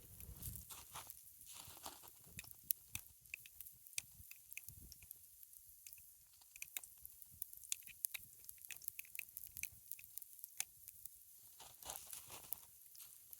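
Pancakes frying in a cast-iron skillet over a campfire: a faint sizzle with many scattered sharp crackles and pops, and a few soft low thumps.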